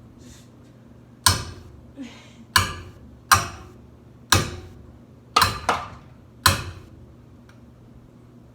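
Repeated hard blows striking a ceiling fan blade, about seven irregular whacks, each with a short ringing tail, bending the blade.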